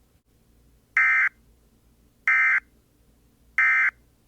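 Emergency Alert System end-of-message code: three short bursts of SAME digital data tones, each about a third of a second long and about 1.3 seconds apart, marking the close of the alert message.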